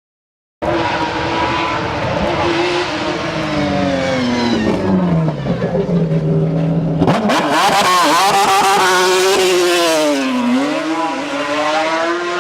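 Mazda rotary-engined racing car engine running loud. The pitch sinks steadily as revs fall over the first half, then changes abruptly about seven seconds in to throttle blips that rise and fall, dipping low near ten seconds before climbing again.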